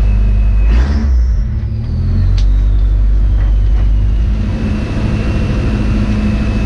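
Car engine running steadily, with a sharp burst of noise about a second in and a high whine that slowly falls in pitch over the next few seconds.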